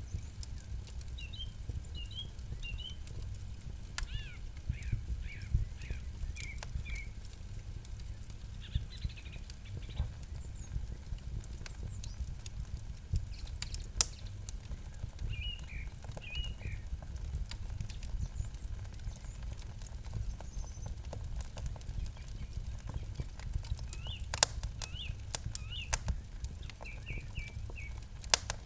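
Campfire crackling, with irregular sharp pops and a low steady rumble of the burning fire. Small birds chirp in short bursts of high notes, about four times.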